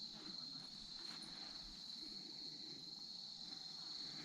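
Crickets chirping at night in a steady, high-pitched, continuous chorus.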